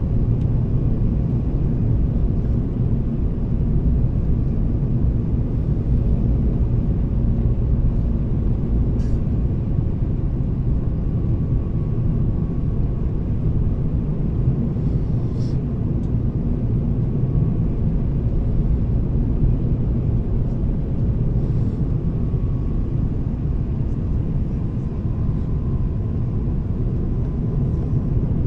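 Steady cabin noise of an Airbus A350-1000 in flight: a low, even rumble of its engines and the airflow over the fuselage, with a faint steady hum above it and a couple of small clicks.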